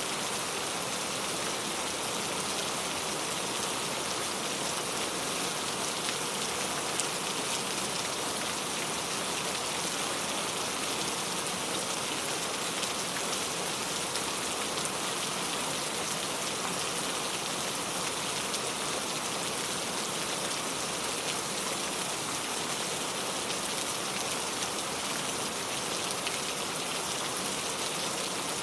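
Steady rain falling, a constant even patter of many fine drops on surfaces.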